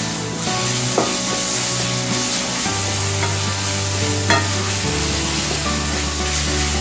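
Onions and ginger-garlic-green chilli paste sizzling in hot oil in a non-stick kadai while being stirred with a spatula, which knocks against the pan a couple of times.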